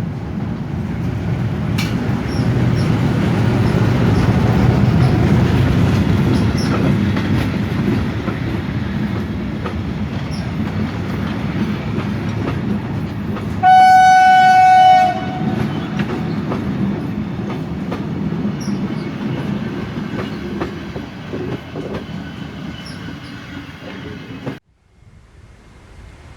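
SM42 diesel-electric shunting locomotive and its train passing with a loud, steady rumble and wheel noise. About halfway through there is one steady horn blast lasting about a second and a half. The sound cuts off suddenly near the end.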